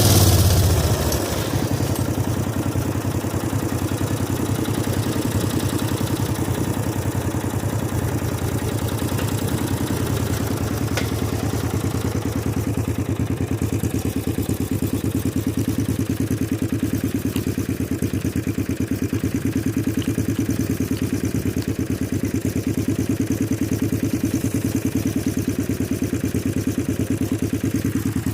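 18 hp V-twin minibike engine dropping from a rev to idle in the first second or two, then idling steadily with an even pulse.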